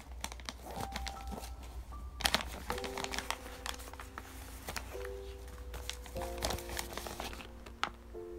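The white wrapping of a gift parcel crinkling and rustling as it is handled, with a dense burst of crackling about two seconds in. Soft background music with long held notes plays underneath.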